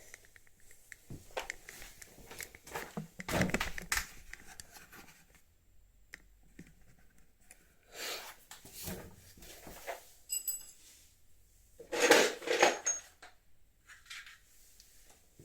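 Hard plastic and metal parts and tools being handled: irregular clicks, knocks and scrapes, loudest in two clusters, about three and a half seconds in and again around twelve seconds in.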